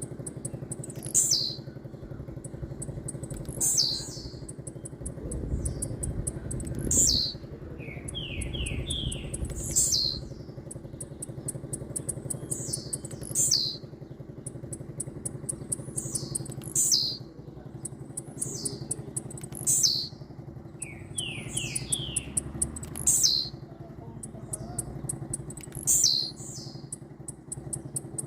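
Blue-black grassquit (tiziu) singing its short descending 'tiziu' phrase, repeated about every three seconds, nine times. A steady low rumble of traffic runs underneath.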